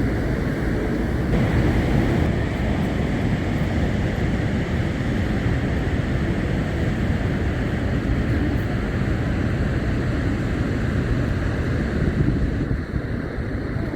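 Steady rushing roar of Niagara Falls' falling water, mixed with wind buffeting the microphone.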